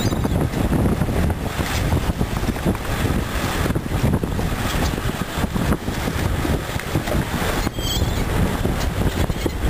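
Strong wind buffeting the microphone in gusts, a loud, rumbling noise that never lets up. A brief high squeak comes about eight seconds in.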